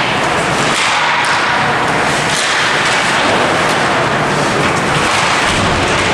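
Ice hockey game noise in a rink: a steady wash of noise with a few sharp knocks of stick and puck.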